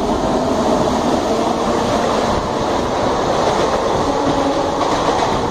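Wheel-and-rail noise of an ICF express coach running at speed, heard from on board: a loud, steady rattle and rush of wheels on the rails. A suburban EMU train is running alongside on the next track.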